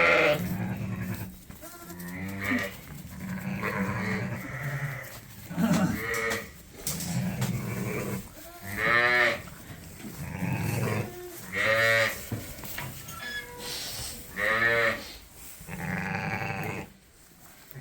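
A flock of sheep bleating, with high, quavering bleats every two or three seconds overlapping deeper, lower calls.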